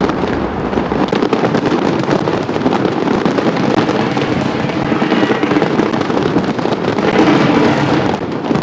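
Fireworks crackling and banging densely without a break, then cutting off abruptly at the end.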